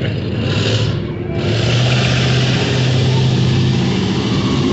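Car engine running close by over street traffic noise, its steady engine note coming in about a second and a half in and holding for a couple of seconds.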